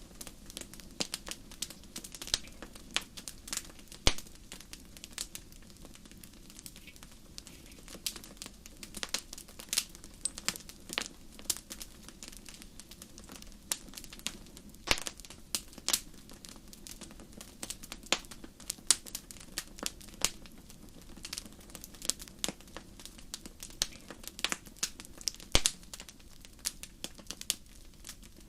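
Wood fire in a fireplace crackling, with many irregular sharp pops and snaps over a low steady background.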